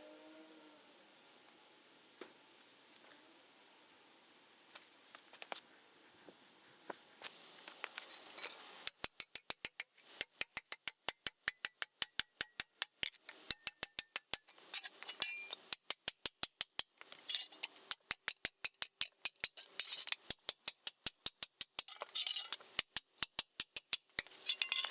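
Quiet at first with a few scattered clicks, then from about nine seconds in a fast run of sharp metallic clicks, about four a second, pausing briefly a few times.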